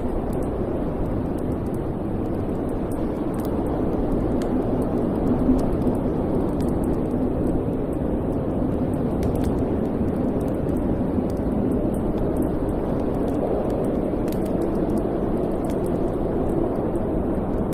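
Wood fire burning in a fireplace: a steady low rumble of flame with scattered faint crackles.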